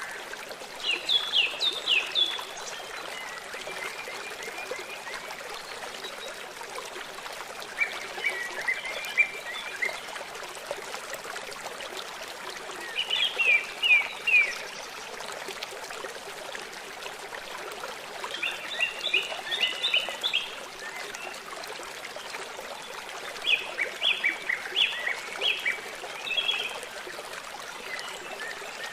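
Small birds twittering in short phrases of quick, high notes, a few seconds apart, over the steady rush of a running stream.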